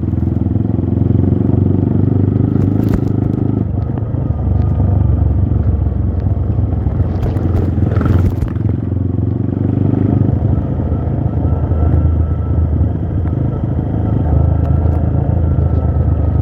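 Trail motorcycle engine running under load on a rough off-road climb, its note easing off and picking back up as the throttle changes. There is a brief clatter about eight seconds in.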